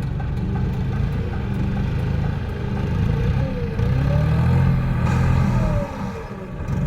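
Tractor diesel engine running under load, its revs rising and falling; it drops briefly quieter near the end.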